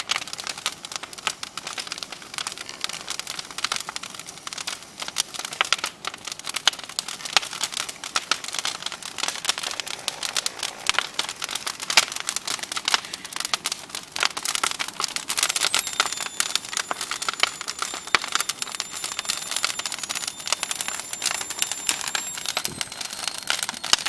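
Bonfire crackling: dense, irregular pops and snaps throughout. About two-thirds of the way in, a thin, high steady whistle joins the crackle.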